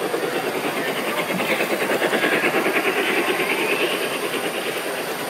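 Model train running along a layout's track, its wheels and motor making a quick, even clicking rhythm. The train grows louder as it passes close, then fades.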